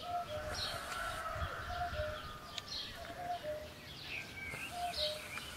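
Birds calling: a repeated low two-note call, the second note a little lower, comes about every one and a half seconds, with scattered high chirps around it.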